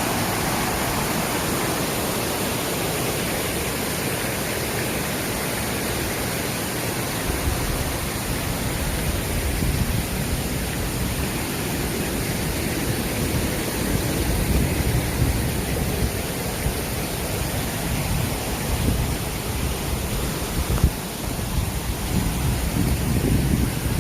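Rushing water of a rain-swollen mountain stream, a steady even hiss. From about a third of the way in, irregular low rumbling buffets the microphone.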